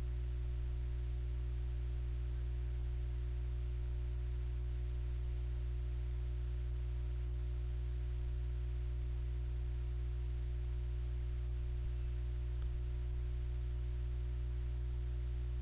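Steady low electrical hum with a few fixed tones over faint hiss, unchanging throughout, with no tool or work sounds.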